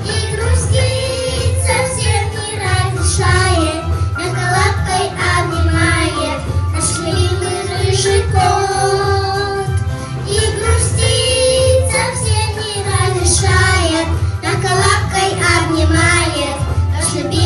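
A girls' vocal trio singing a children's pop song in Russian over backing music with a steady low bass pattern.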